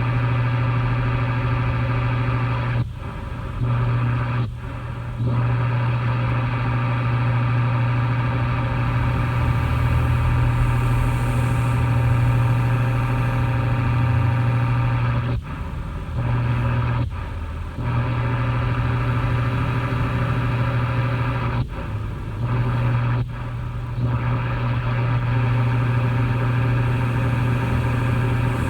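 Steady, loud mechanical drone of a machine, with a strong low hum and many steady tones above it. Three times, it cuts out briefly twice in quick succession before resuming.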